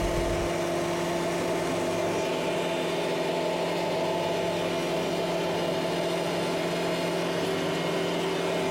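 Kubota MX5800 tractor's diesel engine running at a steady speed, an even hum with a few constant tones.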